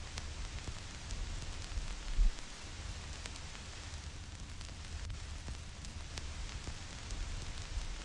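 Vinyl record surface noise: a steady hiss with scattered crackles and pops as the stylus meets dust and scratches in the groove, over a low rumble. There is one louder low thump about two seconds in.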